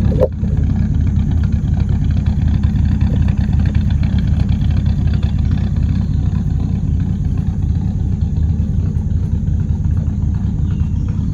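1983 Dodge D150 Miser pickup running, a steady low rumble of engine and road noise.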